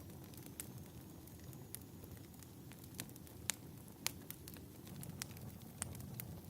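Fireplace crackling: a soft steady rumble of burning wood with scattered sharp pops and crackles, the loudest two about three and a half and four seconds in.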